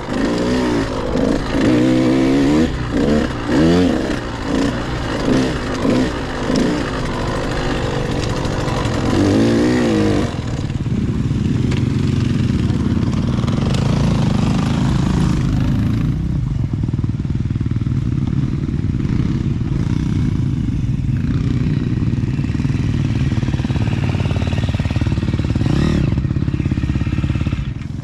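Husqvarna TC 85 two-stroke dirt bike engine revving up and down as it is ridden for about ten seconds, then running at lower, steadier revs.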